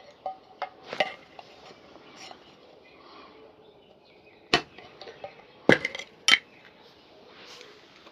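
Scattered sharp clinks and knocks from shoe-shine tools being handled, such as polish tins and brushes, with a louder cluster of three strikes about six seconds in.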